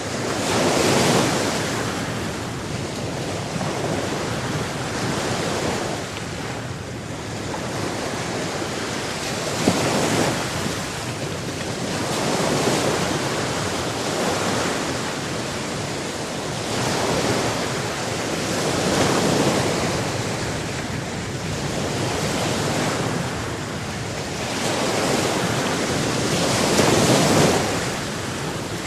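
Sea waves washing in and out, the surf swelling and easing every two to three seconds.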